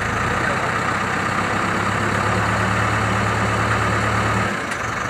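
Diesel engine of a JCB backhoe loader running steadily under load while it lifts and places an electric pole, its low drone easing off about four and a half seconds in.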